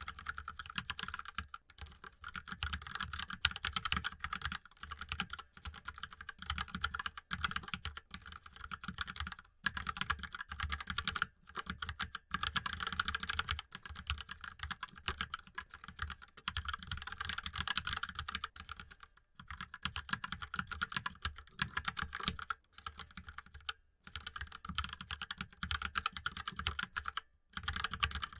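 Mechanical keyboard typing: rapid, continuous keystrokes with a few brief pauses.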